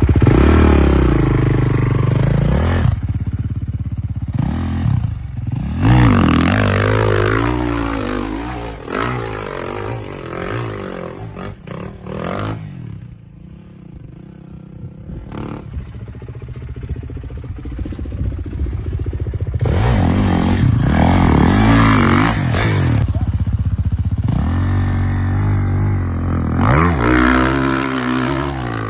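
Dirt bike engines revving hard and easing off again and again, with a quieter lull about halfway through.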